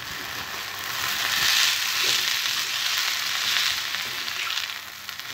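Mint and coriander leaves sizzling in oil in a frying pan as they are sautéed and turned with a spatula; the hiss swells and eases with the stirring.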